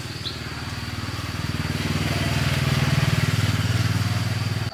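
Small motorcycle engine running, growing louder over the first three seconds as it draws closer, then stopping abruptly near the end. A steady high insect whine runs behind it.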